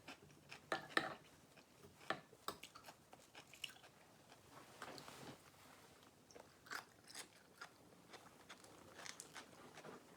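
A person crunching and chewing crisp dill pickle chips close to the microphone: irregular sharp crunches, the loudest in the first second or so, then softer chewing.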